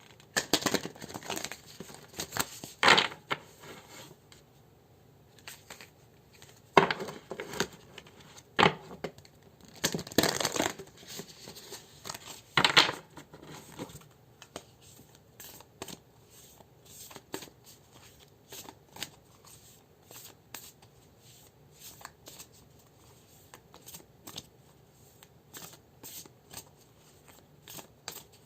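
Tarot cards being shuffled by hand. In the first half come several louder swishes of the deck, then a long stretch of soft, scattered card taps and slides.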